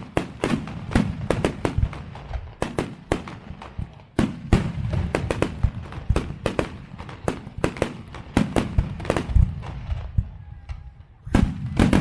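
Fireworks display: rapid sharp bangs and crackles of bursting shells, several a second, over a low rumble, thinning to a short lull near the end before the bangs pick up again.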